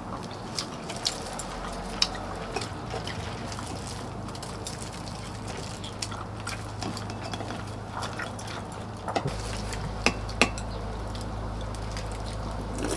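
Eating sounds at a meal of chicken soup: scattered clinks of spoons and chopsticks against bowls, with soft liquid sounds of the soup, over a low steady hum.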